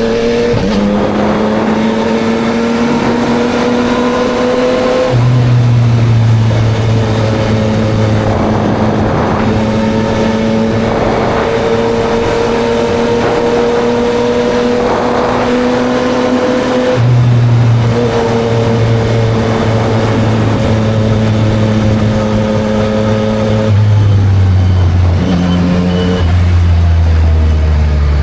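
Yamaha MT-09 SP's inline-three engine through a Spark triple-exit full exhaust, under way: the engine note climbs slowly and then drops or jumps abruptly with gear changes about five, seventeen and twenty-four seconds in. A few quicker changes come near the end. A steady rush of wind and wet-road noise lies underneath.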